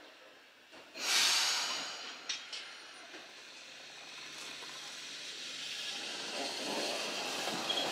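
Eizan Electric Railway electric railcar 802 letting out a sudden loud hiss of compressed air about a second in, its brakes releasing as it starts off. A couple of light clicks follow, then the sound of the train's running gear grows steadily louder as it pulls out toward the listener.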